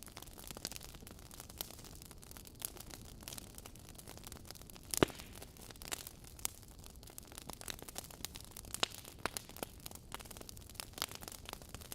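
Wood fire burning in a fireplace, crackling with scattered sharp pops of burning logs over a faint steady hiss; the loudest pop comes about five seconds in.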